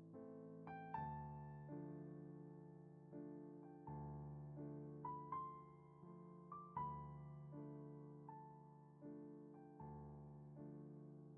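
Slow, soft solo piano music: single melody notes struck every second or so over held bass notes, each ringing and fading away.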